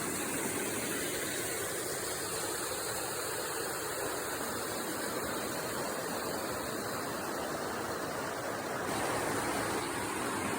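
Fast-flowing creek water rushing steadily over a small rock falls.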